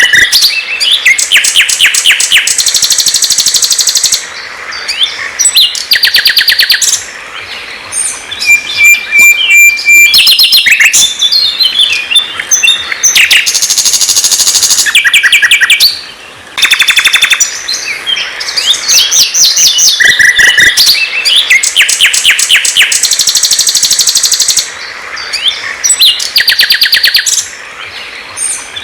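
Songbird singing loudly and almost without a break: fast rattling trills, rapid repeated notes, buzzy phrases and short whistles, with brief pauses about 4, 7, 16, 25 and 27 seconds in.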